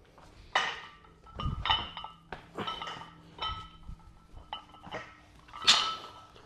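Gym weights being handled: a barbell and iron plates clinking and clanking together about half a dozen times, each knock leaving a short metallic ring, with one duller thump about a second and a half in.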